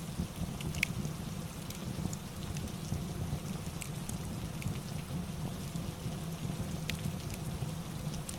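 Steady rain ambience with a low rumble, mixed with scattered sharp crackles of a wood fire, the clearest just under a second in and about seven seconds in.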